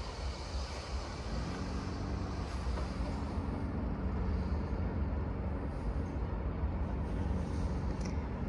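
Locomotive approaching along the railway line at a distance: a steady low rumble with a faint droning hum that grows slightly louder.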